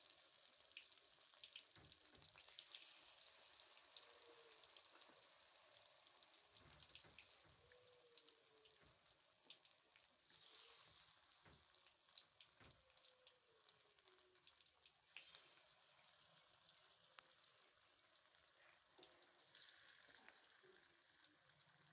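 Battered cauliflower florets frying in oil in a steel kadhai over a low flame: a quiet, steady sizzle with fine crackles throughout, and a few faint knocks.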